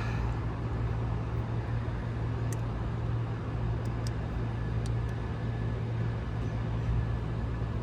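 Steady low hum and rushing noise of rooftop HVAC units running, with a few faint light clicks as motor wires are handled.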